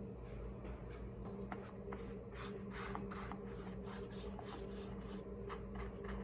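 Paintbrush stroking paint onto a paper plate: a run of short brushing strokes, about three or four a second.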